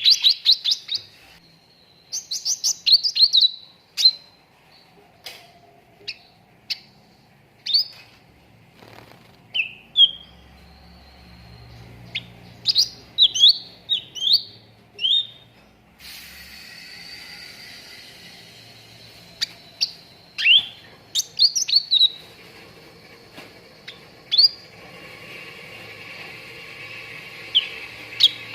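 Cucak ranting (a bulbul) calling: sharp chirps and short falling whistled notes, often run together in quick bursts of several notes with gaps of a few seconds between them.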